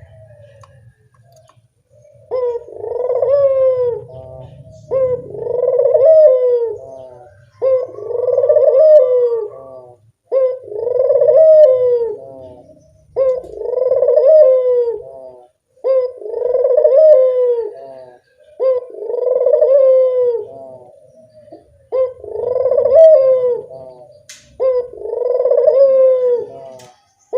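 Ringneck dove (burung puter) cooing loudly over and over. It gives about nine evenly spaced coo phrases, roughly one every two and a half seconds, each a rising-then-falling call starting about two seconds in.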